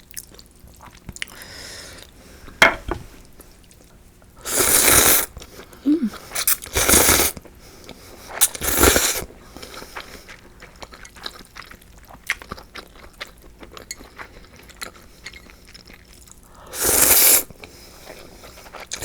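Close-miked eating sounds: quiet chewing broken by four loud, noisy bursts of slurping hot soba noodles and broth.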